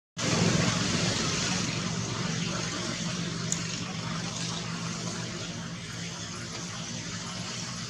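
A motor vehicle's engine running with a steady hum, loudest at the start and slowly fading.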